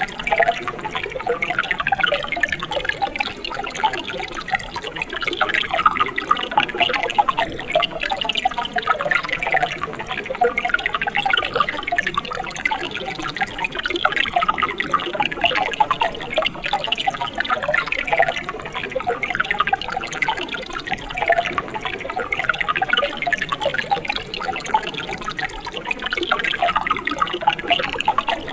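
Mountain stream water running and splashing over rocks in a steady, even burble, with close bubbling and trickling.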